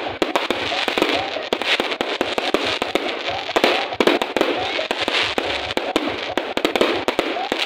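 Fireworks display: a dense, continuous barrage of bangs and crackles from aerial shells bursting, several reports a second.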